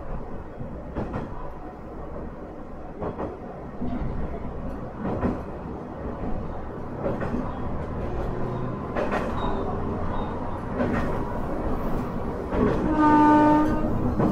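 Interior running sound of a Minamiaso Railway MT-4000 diesel railcar: a steady rumble with the wheels clicking over rail joints about once a second. Near the end the train's horn sounds once for about a second, the loudest sound here.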